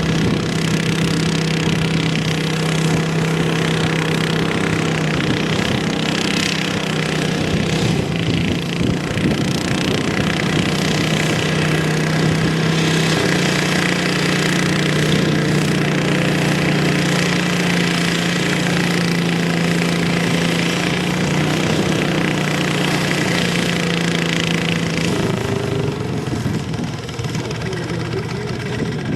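Small pulling tractor's engine running hard at steady high revs under load. Its pitch steps up a little about halfway through, and it drops off near the end as the engine is let down.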